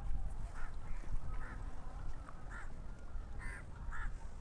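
Birds calling: a run of short, harsh calls repeated about every half second, over a low steady rumble.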